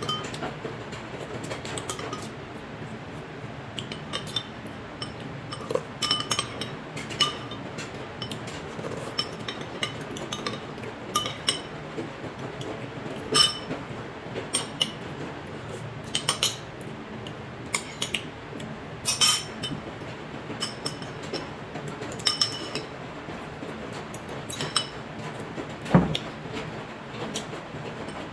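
Cutlery clinking and tapping against bowls and dishes while eating, in irregular scattered clicks, with one heavier knock near the end.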